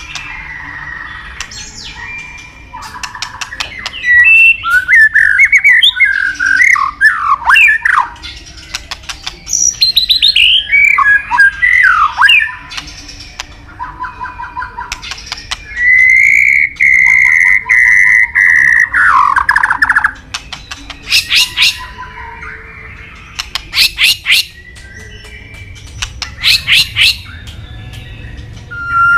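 White-rumped shama (murai batu) singing a long, varied song of loud fluting whistles and rapid rattling trills. About halfway through it holds one long steady whistle for several seconds, and near the end come bursts of fast clicking notes.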